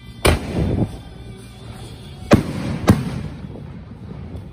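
Fireworks going off: three loud bangs, one just after the start and two close together a little past halfway, each trailing off into a rumbling echo, with music playing underneath.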